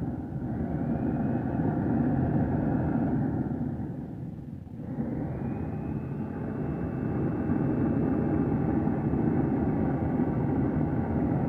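Homemade jet engine running with a loud steady roar and a high whine. About four seconds in it dips briefly, then the whine climbs again and holds steady.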